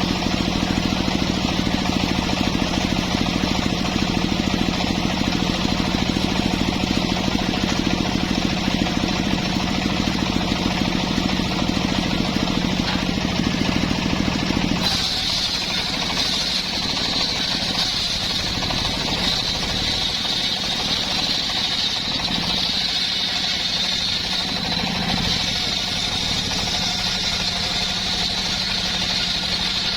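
Two-stroke chainsaw running steadily at high revs. About halfway through the deep engine note drops away and a high, steady whine takes over.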